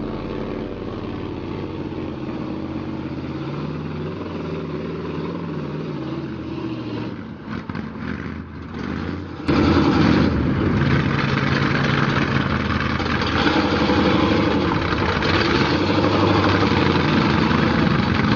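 Mud truck engine running, its pitch shifting a little in the first half. About halfway through the sound jumps suddenly to a much louder engine.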